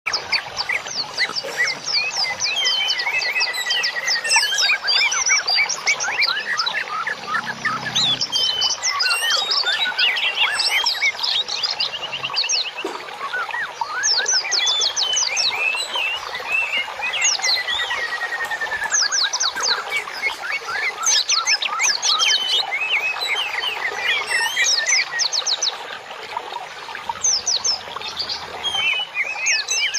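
Dense songbird chirping and singing: many overlapping rapid chirps, trills and gliding whistles, with no pause. This is a masteran, a birdsong recording played to caged songbirds to tutor or calm them.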